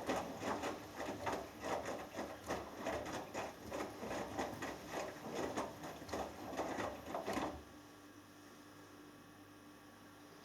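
Hoover Dynamic Next washing machine's drum turning during a cotton wash, wet laundry and water sloshing and thudding in a quick, even rhythm. About seven and a half seconds in the drum stops, leaving a faint steady hum.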